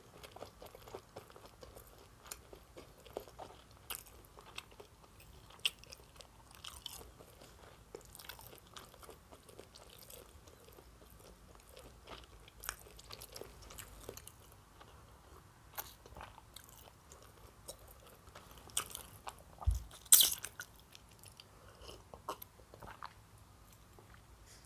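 A person chewing food with the mouth closed, close to the microphone: a steady run of small, irregular mouth clicks and crunches. A louder knock comes about twenty seconds in.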